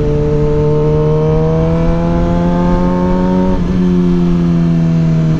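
Suzuki GSX-R 600's inline-four engine under way, its note climbing steadily as it pulls. About three and a half seconds in there is a brief break, after which the note eases gently down. A rushing haze of wind noise runs underneath.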